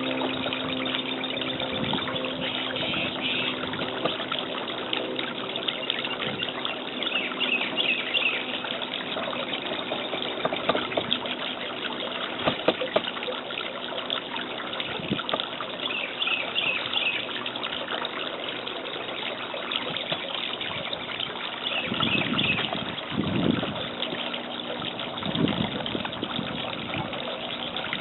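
Birds calling in short, high chattering bursts every few seconds over a steady rushing, trickling noise.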